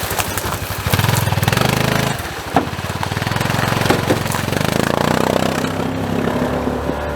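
Side-by-side UTV engine running, revving up briefly about a second in and then running steadily, with one sharp knock about two and a half seconds in.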